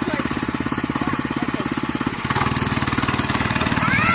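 Small motorcycle engine running with a steady, even pulse, changing in note about two seconds in.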